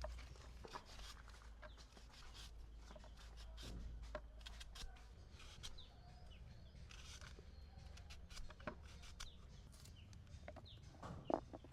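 Chickens clucking faintly, with scattered small knocks and clatters.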